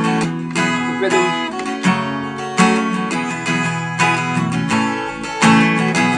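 Acoustic guitar strummed in a steady rhythmic pattern through the song's bridge chords, E minor, D, G, D, changing chord a couple of seconds in and again near the end.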